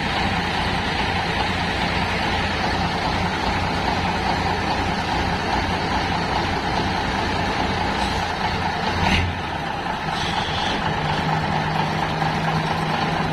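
Fiat 691 four-axle truck's diesel engine running steadily. About nine seconds in there is a short sharp burst, after which the engine settles to a different steady note.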